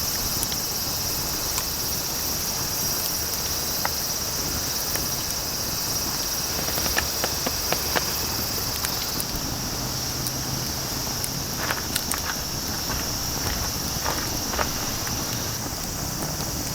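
A steady, high-pitched chorus of summer insects droning without a break, with scattered light clicks and ticks around the middle.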